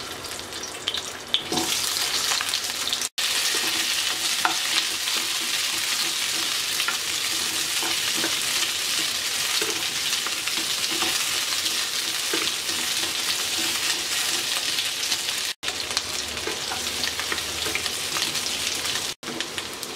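Small boiled potatoes sizzling loudly as they shallow-fry in hot mustard oil in a non-stick wok, stirred now and then. The sizzle starts about a second and a half in, when the potatoes hit the oil, and stays steady, broken by three brief silent gaps.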